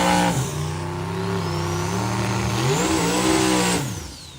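Drag-racing engine at full throttle: the pitch drops sharply on a gear change just after the start, climbs again in steps, then falls away near the end as the driver lifts off. A faint high whine rises with the engine and falls with it.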